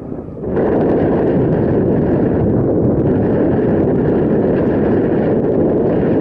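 Loud wind buffeting the microphone of a camera riding along on a moving bicycle, a steady rushing rumble that eases briefly at the start and comes back full about half a second in.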